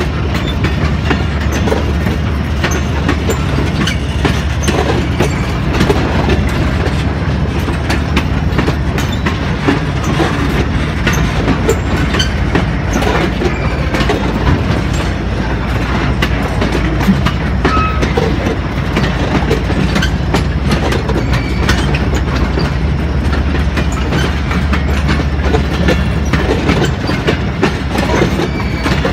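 Railway tank wagons rolling past close by: a steady, loud rumble of steel wheels on the rails, broken by many sharp clicks as the wheels run over the rail joints.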